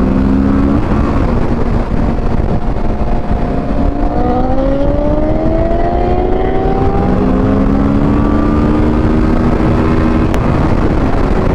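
Kawasaki Ninja 650 parallel-twin engine accelerating through the gears: its pitch climbs, drops at a shift about a second in and again about seven seconds in, then climbs again. Heavy wind rush on the microphone runs under it.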